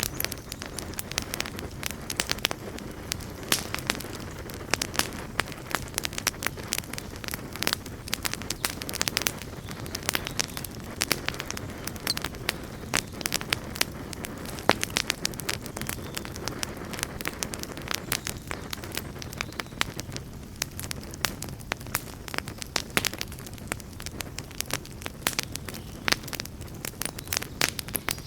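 Wood campfire burning with a steady low rumble and dense, irregular crackles and sharp pops.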